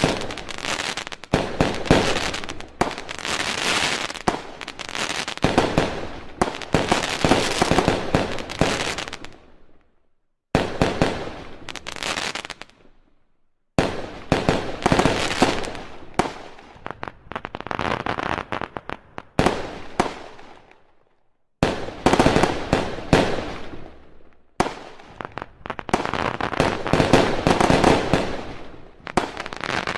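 Fireworks going off in rapid volleys of many sharp bangs and crackles. Five volleys of several seconds each, separated by brief, abrupt breaks.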